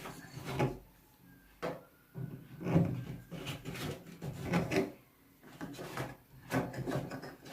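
Plastic drain filter cap of a washing machine being twisted open to the left, scraping and rubbing in a series of short, uneven turns.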